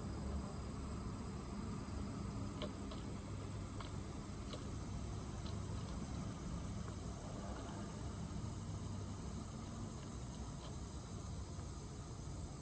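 Steady, unbroken high-pitched insect trill in the background, over a low rumble, with a few faint short ticks a few seconds in.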